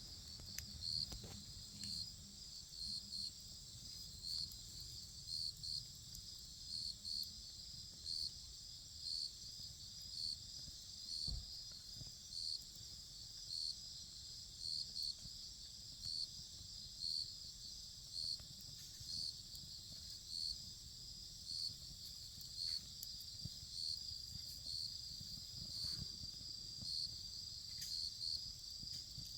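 Crickets chirping: a steady high trill with louder chirps pulsing about once a second, and a few faint clicks here and there.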